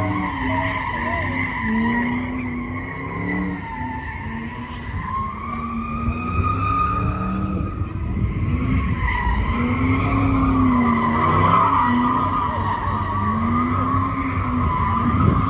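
Car tires squealing continuously as a car spins donuts. The engine note rises and falls in a repeating cycle about every three to four seconds.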